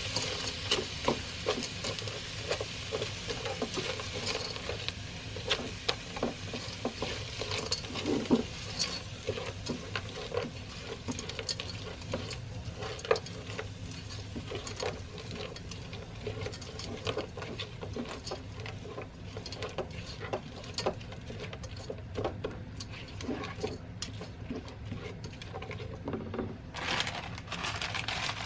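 Frozen vegetables sizzling gently in a frying pan while a spatula stirs them, with frequent irregular scraping and clicking of the utensil against the pan.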